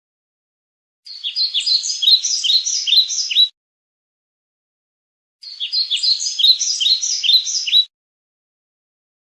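Bird chirping in two bursts of quick, repeated, falling chirps, each about two and a half seconds long, the first about a second in and the second past the middle. Each burst starts and cuts off abruptly into complete silence, like a repeated recording.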